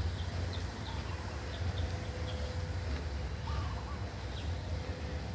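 Birds chirping: scattered short, high calls, with a few lower warbled notes, over a steady low rumble.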